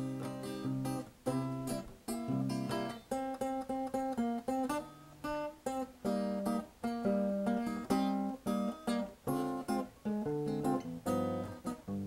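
Solo acoustic guitar playing a song's introduction: strummed chords in a steady rhythm, each stroke ringing and fading, with picked bass notes underneath.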